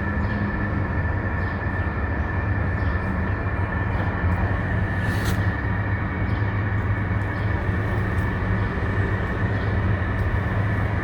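Steady mechanical rumble with a low hum and a thin, high, even whine, like a running engine or passing traffic, with one short click about five seconds in.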